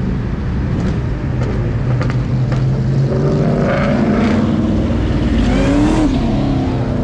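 Car engines running over a steady low rumble, with one revving up and dropping back about six seconds in.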